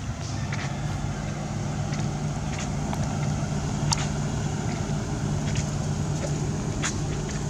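A steady low motor hum, like an engine running nearby, with scattered brief sharp clicks over it.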